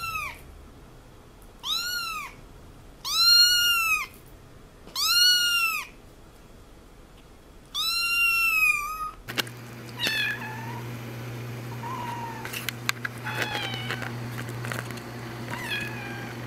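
Kittens meowing: loud, high-pitched meows, each rising and falling in pitch, every second or two. About nine seconds in, the recording changes to fainter, shorter meows over a steady low hum.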